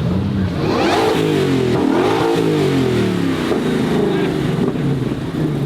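Ford Mustang GTD's 5.2-litre supercharged V8 revving, its pitch climbing and falling several times.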